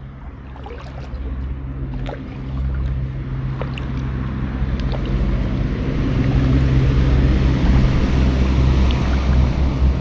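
Wind buffeting the microphone: a low, gusty rumble that grows steadily louder, with a few faint ticks.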